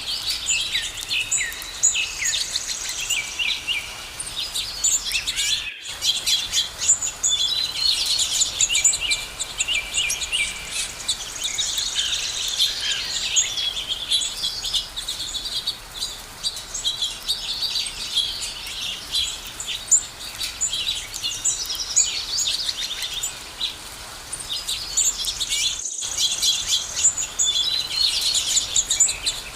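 A dense chorus of many small birds chirping and trilling at once, high-pitched and continuous. The sound drops out for an instant twice, about six seconds in and near the end.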